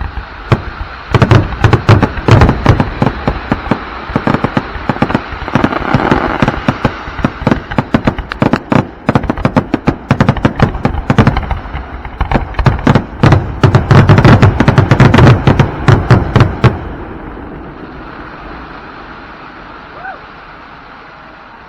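Aerial fireworks going off in a dense, rapid barrage of bangs, typical of a show's grand finale, stopping suddenly near the end, after which only a fading background noise remains.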